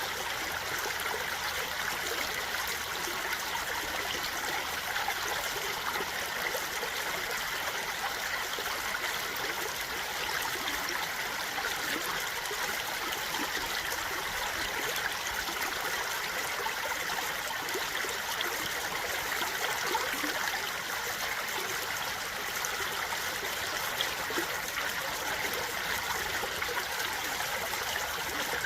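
A stream flowing steadily: an unbroken rush and trickle of running water with no change in level.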